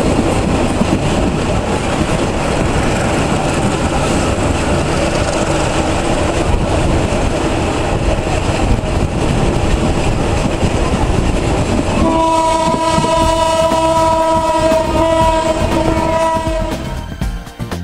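Train running along the track with a steady rumbling noise, then about twelve seconds in the locomotive's horn sounds one long, steady blast of about five seconds.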